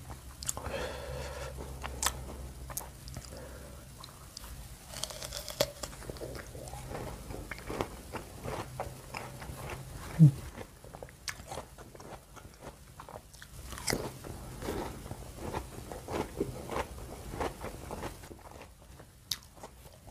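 Close-miked biting and chewing of crisp jumbo Citra water apple (wax apple) dipped in thick rujak sauce: repeated crunching bites and wet chewing. A single short low thump about ten seconds in is the loudest sound.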